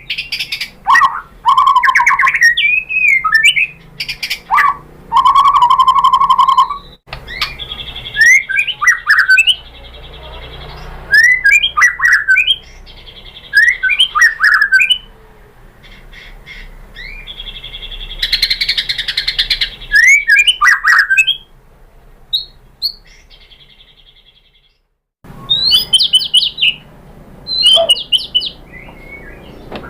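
White-rumped shama (murai batu) singing: loud, varied whistled phrases with fast trills and a harsh rasping burst. The song breaks off abruptly into a second of silence near the end, then starts again.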